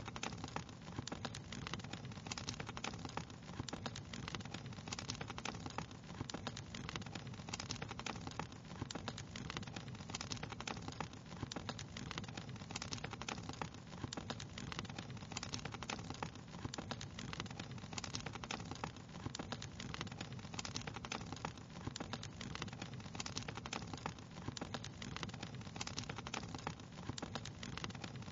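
Crackling wood fire: a steady low rumble of burning with many small, irregular pops and snaps.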